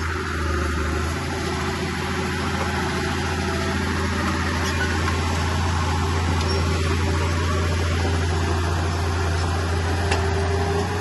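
Diesel engine of a Komatsu bulldozer running steadily under work, with a deep even hum and a couple of faint clanks.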